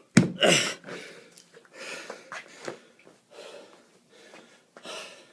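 A man breathing hard from exertion during a kettlebell workout: a loud grunting exhale right at the start, then a run of heavy breaths about once a second.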